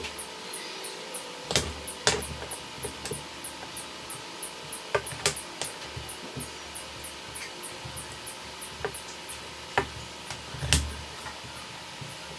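Scattered light taps and knocks of handwork, irregular, with one heavier knock about two-thirds of the way through, over a fast, even high ticking of about four or five a second and a faint steady hiss.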